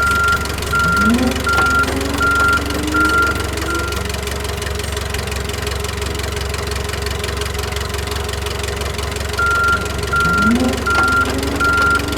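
Cartoon soundtrack: a steady low engine-like drone runs under a short phrase of six quick, evenly spaced high beeps over rising and sliding tones, played twice, about nine seconds apart.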